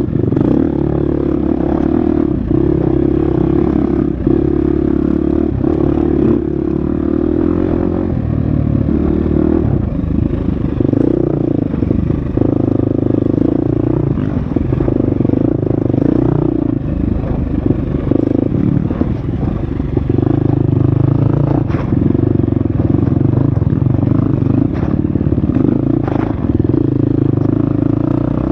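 Husqvarna FX 350 dirt bike's single-cylinder four-stroke engine running under load on an off-road trail, its pitch rising and falling as the throttle opens and closes, with scattered clatter and knocks from the bike over rough ground.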